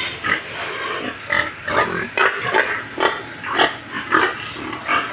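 Domestic pigs grunting and squealing in a quick run of short calls, about two or three a second.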